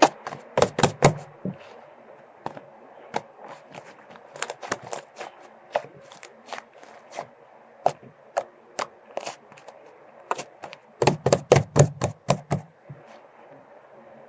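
Slime being squeezed, poked and stretched by hand, giving irregular sharp clicks and pops, with dense flurries of them near the start and again about eleven seconds in.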